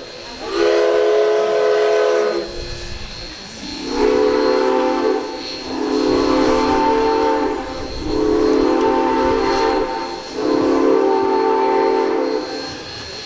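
Steam locomotive chime whistles: one blast, then four long blasts on a lower-pitched chord, the four-whistle call that signals passengers to board the train.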